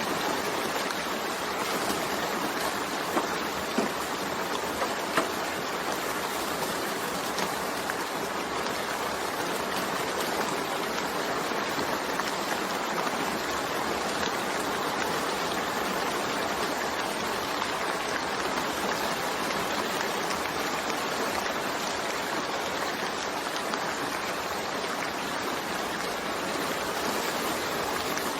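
Steady heavy rain, an even hiss of falling water, with a few sharper drop ticks about three to five seconds in.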